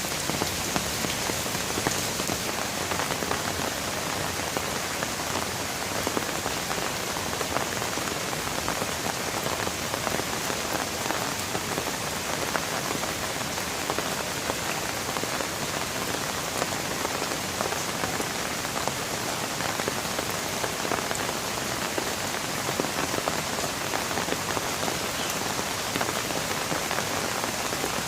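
Steady rain falling, with many individual drops ticking on a hard surface and no thunder.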